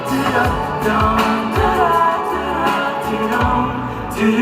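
Live pop music with a steady kick-drum beat and sung vocals without clear words.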